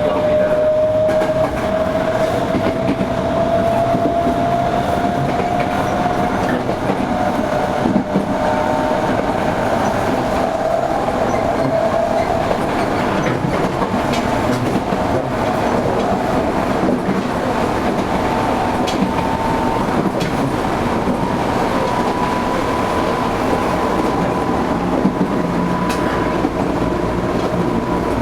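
Running sound inside a Toei 5300 series electric train: steady wheel and track rumble with rail-joint clatter, and a thin motor whine that climbs slowly in pitch as the train gathers speed.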